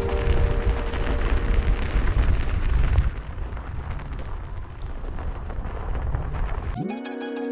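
Wind buffeting the action camera's microphone as an electric unicycle rides through snow, a gusty low rumble that eases off about three seconds in. Music comes in near the end.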